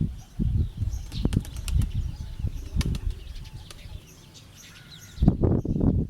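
Pigeons' wings flapping in a run of irregular flutters and claps, loudest in a burst about five seconds in.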